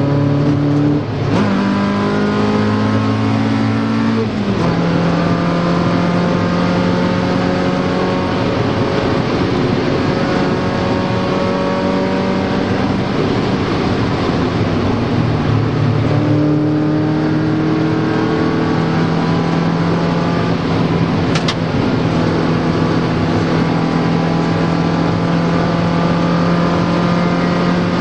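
Mazda Miata four-cylinder engine heard from inside the cabin, pulling hard at speed: two quick upshifts about one and four seconds in drop its pitch, then long pulls with the pitch slowly climbing, a brief lift and a renewed pull about halfway, over steady tyre and road noise. A single sharp click sounds about two-thirds of the way through.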